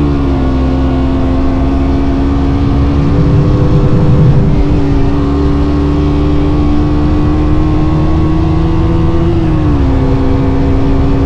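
KTM Duke motorcycle engine running at a steady cruising speed. The pitch rises slightly about three seconds in, then drops near the end as the throttle eases.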